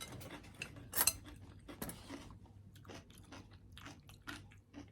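Close-miked chewing of food: a run of irregular crisp crunches and mouth clicks, the loudest about a second in.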